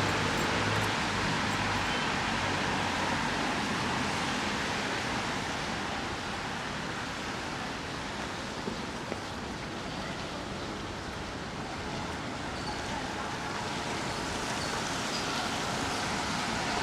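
Steady hiss of rain and wet-street traffic, with a vehicle's low engine hum fading out in the first couple of seconds.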